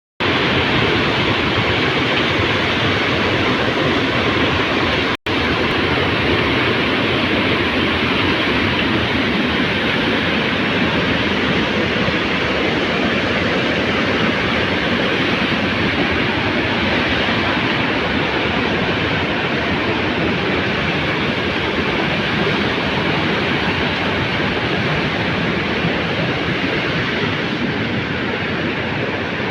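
The Ganges near its source in fierce torrent: a loud, steady rush of fast water. It breaks off for an instant about five seconds in.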